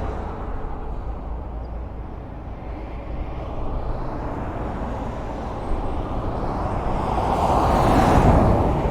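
Highway traffic: a steady rumble of tyres and engines, with one vehicle passing close, its noise building to a peak about eight seconds in and then fading.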